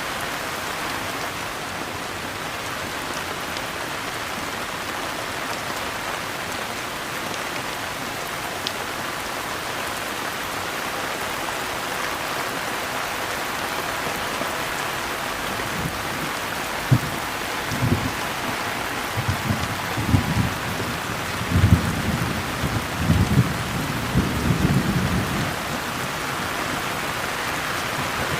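Steady rain falling, with a roll of thunder past the middle: a run of deep rumbles and cracks lasting several seconds before the rain carries on alone.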